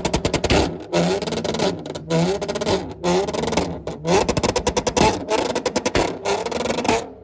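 Car engine being revved repeatedly, about once a second, the pitch climbing and dropping back with each blip of the throttle.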